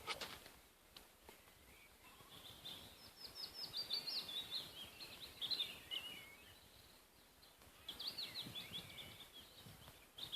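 Birds singing faintly outdoors: two stretches of quick, high chirping notes, one starting a couple of seconds in and lasting a few seconds, the other near the end.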